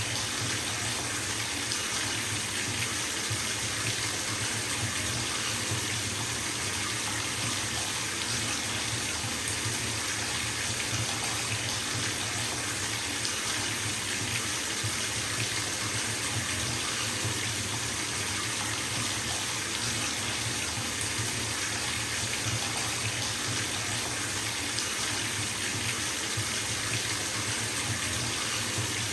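Bathtub tap running full into the tub, a steady, unbroken rush of water splashing into the filling bath.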